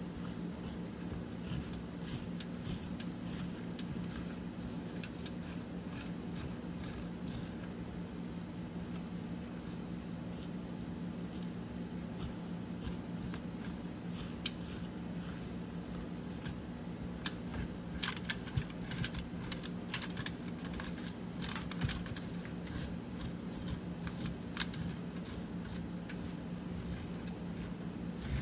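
A person eating, with scattered small clicks and crunches and a run of sharper clicks about two-thirds of the way through, over a steady low hum.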